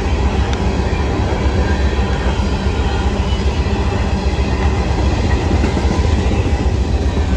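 A train rolling past on the track: a steady, loud rumble of wheels and railcars.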